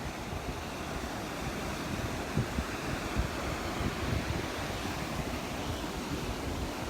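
Wind buffeting the microphone in uneven low rumbles and gusts, over the steady wash of surf breaking on the beach.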